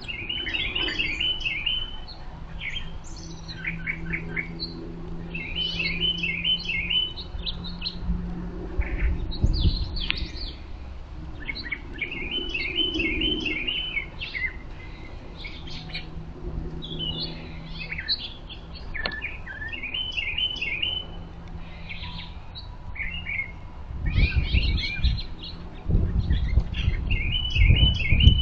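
Wild songbirds chirping and calling, one bird repeating the same short rapid phrase every several seconds. A faint low hum runs underneath, and a low rumble comes in about four seconds before the end.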